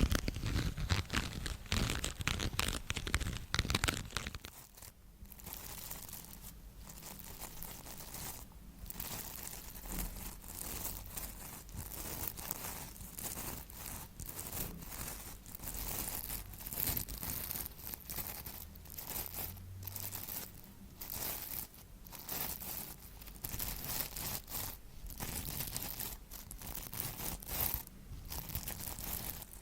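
Crinkling, crackling sounds like something being crumpled or torn, loud for the first four seconds, then quieter with short irregular crackles and rustles.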